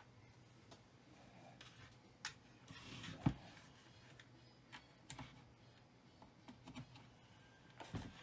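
Scattered light clicks and taps of hard objects being handled, with one louder knock about three seconds in, over a faint steady low hum.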